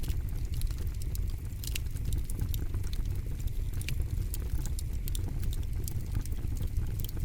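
Campfire burning: the wood crackles and pops in frequent, irregular sharp snaps over a low, steady rumble.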